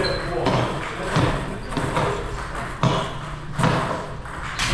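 Table tennis ball being hit back and forth in a rally: sharp clicks of the ball off the rackets and table, about two a second.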